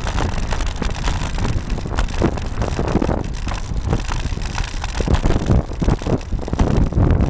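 Wind buffeting the microphone of a camera mounted on a moving road bike, over a steady road rumble, with frequent short rattles and knocks as the mount is jolted.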